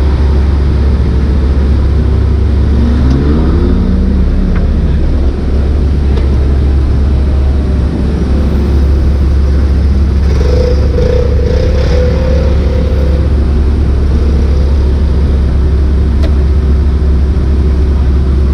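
Lamborghini Gallardo's V10 engine heard from inside the cabin, running steadily at low revs as the car rolls slowly, with a brief rise in pitch about three seconds in.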